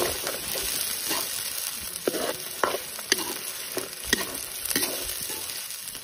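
Metal ladle stirring meat and onions frying in oil in a karahi: a steady sizzle with repeated scrapes and clinks of the ladle against the pan.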